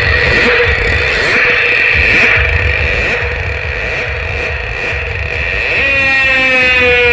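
Loud music from a DJ sound system: a held, high synth tone over a deep pulsing bass. Near the end the tone slides downward.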